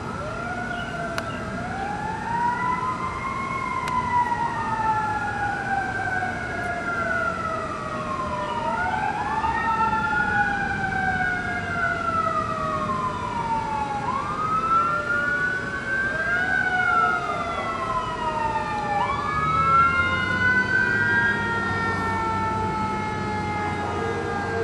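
Fire engine siren wailing, its pitch rising and falling slowly and repeatedly, several overlapping wails at once. A low engine rumble grows near the end.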